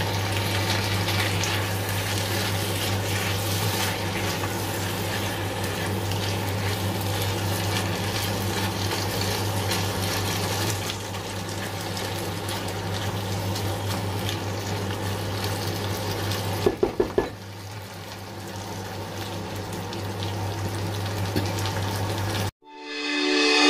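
Chicken simmering and sizzling in oyster sauce in a wok on an induction cooktop, with a steady low hum and a spatula stirring through the food. About seventeen seconds in come four quick clicks, after which the hum drops away. The sound cuts off near the end and music begins.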